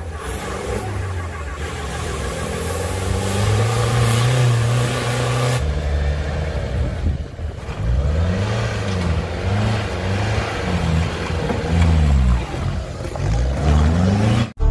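Off-road 4x4 engines under hard load: first a steady, high-revving engine on a muddy climb, then after a cut an open jeep's engine revved up and down over and over, about once a second, as it crawls over loose rocks.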